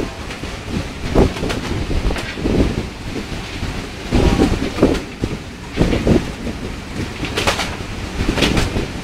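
Wind buffeting the microphone in irregular gusts, over a steady rush of sea and ship noise from a vessel under way at sea.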